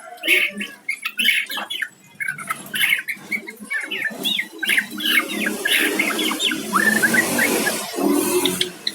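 White-rumped shama (murai batu) singing: a long run of quick, varied whistled phrases and chirps, with a rushing noise behind the song in the second half.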